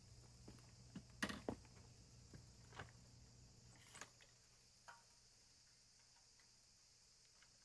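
Near silence with a few faint clicks and knocks in the first five seconds, then quiet.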